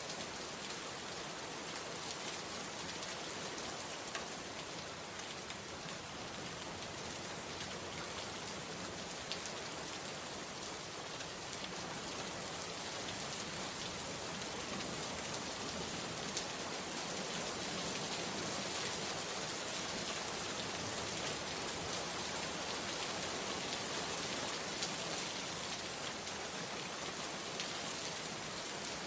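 Steady rain falling, an even hiss with occasional single drops ticking out of it.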